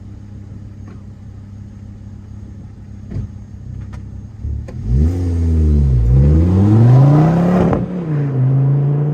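Car engine through a catback exhaust with no rear silencer box, idling steadily, then accelerating hard about five seconds in: the pitch dips, then climbs with a raspy exhaust note. It breaks off sharply near the end for a gear change, then climbs again from a lower pitch.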